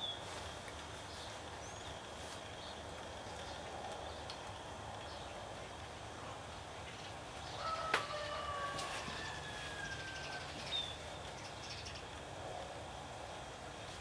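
Outdoor ambience with scattered faint bird chirps; about eight seconds in, a sharp click and then a longer, slightly falling bird call lasting a few seconds.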